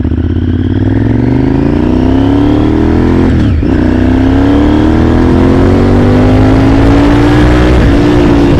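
Honda VTR1000 Firestorm's V-twin engine under hard acceleration, pulling up through the gears. The pitch rises steadily, drops at an upshift about three and a half seconds in, climbs again, then dips at a second shift near the end.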